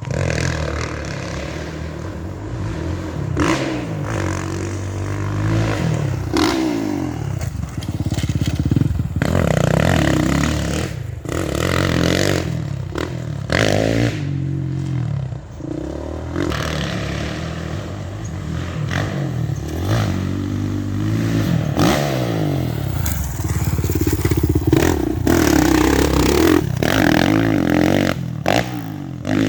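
Dirt bike engine revving up and falling back again and again as it is ridden around a motocross track, with frequent knocks and rattles.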